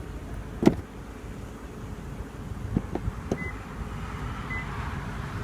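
A car door shuts with one sharp thud, the 2014 Lexus LS 460's door latching closed. A few light clicks follow, then two short high beeps.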